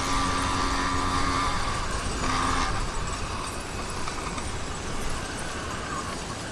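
Motorized bicycle's YD100 two-stroke engine running at a steady pitch. The engine note drops out about a second and a half in, returns briefly, then gives way to a steady rushing noise.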